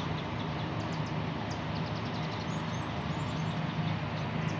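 Helicopter running steadily, a constant low hum with rushing noise over it.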